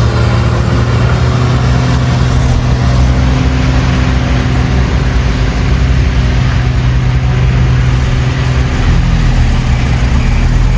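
Engine of heavy construction machinery running steadily at an even speed.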